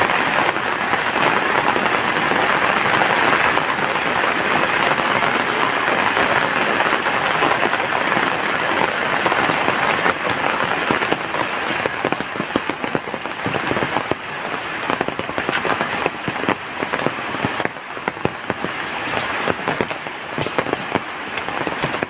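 Heavy rain falling in a dense, steady hiss; about halfway through it thins into distinct drops and splashes striking a surface.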